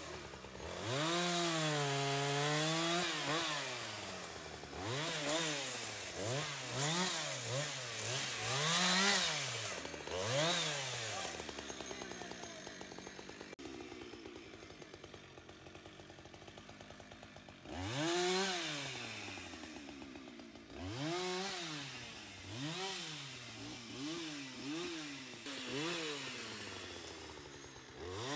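Two-stroke chainsaw revved up and down in short, repeated bursts while cutting. It drops to a low idle for several seconds about halfway through, then revs in quick bursts again.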